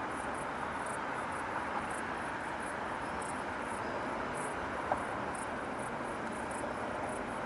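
Steady distant city traffic hum, with insects chirping in short, high, irregular bursts over it; a single faint click about five seconds in.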